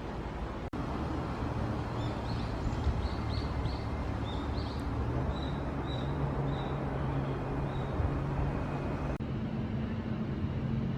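Outdoor ambience: a steady low rumble with a bird chirping repeatedly through the first half, and a low steady hum that settles in about halfway.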